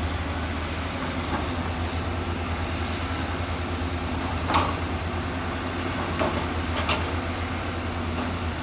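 Heavy diesel construction machine engine running steadily with a low, even drone. Three short knocks sound about halfway through and again near the end.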